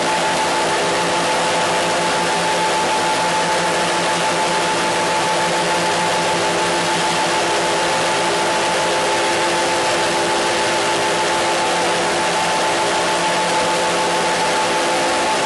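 Radio static: an even, unchanging hiss with several steady humming tones running through it.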